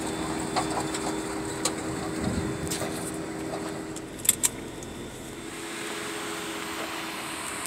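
A vehicle engine running at a low, steady pitch, with scattered clicks. Two sharp clicks come close together about four seconds in.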